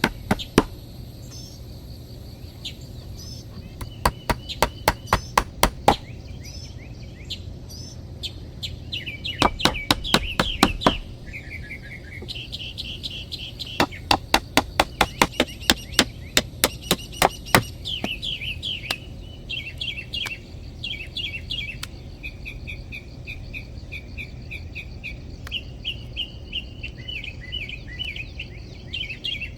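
Three bouts of quick, sharp tool strikes, several a second, typical of chopping or hammering at a bushcraft build. Birds chirp and sing throughout, most steadily after the strikes stop in the second half.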